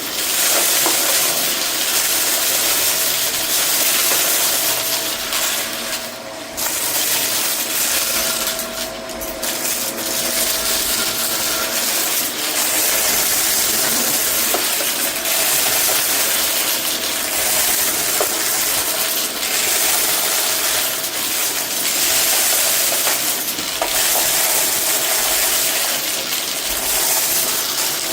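Vacuum cleaner running steadily, its suction hiss loud with a faint steady motor whine underneath. It dips briefly about six seconds in and again about nine seconds in.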